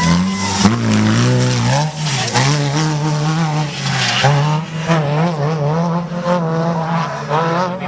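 Off-road trophy truck engine revving hard, its pitch rising and falling repeatedly as the driver works the throttle.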